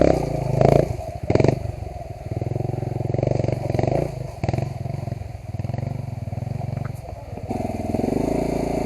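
Off-road motorcycle engine running at low revs with a steady beat of firing pulses, picking up a little near the end. A few sharp knocks sound in the first second and a half.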